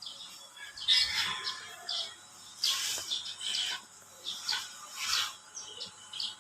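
Birds chirping, with many short calls overlapping in quick succession.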